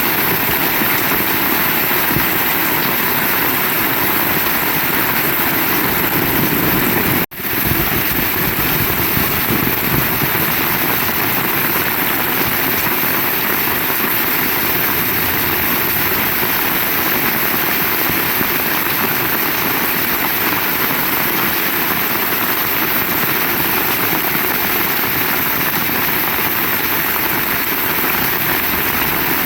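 Heavy rain falling steadily in a loud, even hiss, cut off for an instant about seven seconds in.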